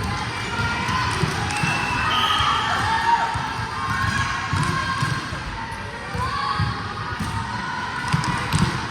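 Volleyballs thudding and bouncing on a gym court, with scattered thuds and players' and spectators' voices in the background.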